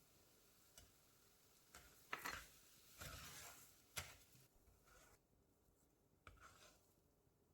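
Faint, scattered handling sounds: a few sharp clicks and short stretches of scraping or rustling.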